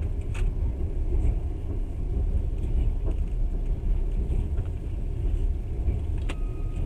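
Steady low rumble of a passenger train running on the rails, heard from inside the carriage, with a few faint clicks.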